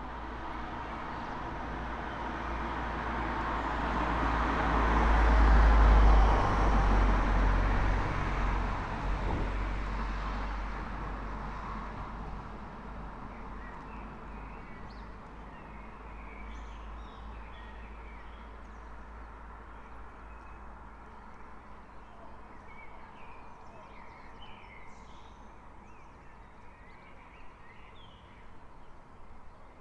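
A single motor vehicle passes along the street, its rumble swelling to a peak about six seconds in and fading away by the middle. Early-morning birds then chirp and sing against the quiet street.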